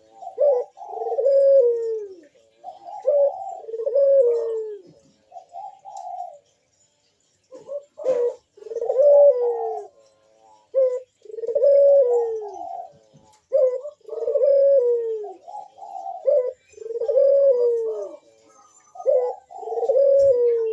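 Puter (Barbary dove) cooing over and over, about one phrase every two seconds, each ending on a falling note. There is a short pause about seven seconds in and a single click just after it.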